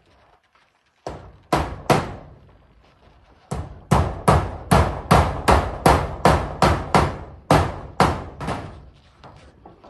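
Hammer driving roofing nails into corrugated zinc sheets. Three blows come about a second in, then after a short pause a steady run of about a dozen blows at two to three a second, each with a brief ring, tapering to faint taps near the end.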